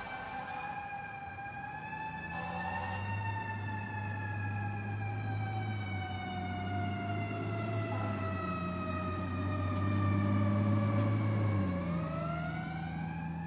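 Fire engine siren wailing in one long, slow sweep: the pitch falls gradually and then rises again near the end, over a steady low rumble.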